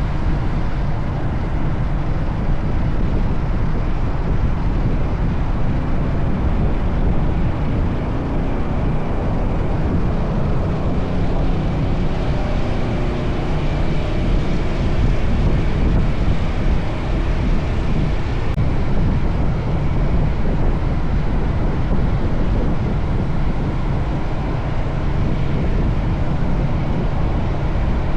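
Steady wind rush and deep rumble of a motorcycle riding along, unchanging throughout.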